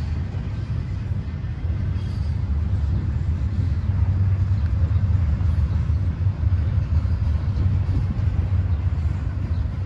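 Double-stack container well cars of a freight train rolling past on the rails, a steady low rumble of wheels on track that grows a little louder about two seconds in.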